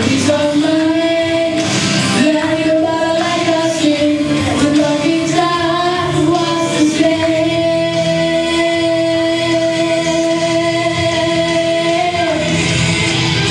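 A solo voice singing a song over a backing track, ending the phrase on one long held note of about six seconds that stops about a second before the end.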